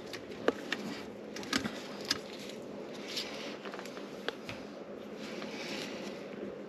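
A few light clicks and taps of small parts being handled while the garbage disposal's wiring and connectors are worked on, over a steady faint background.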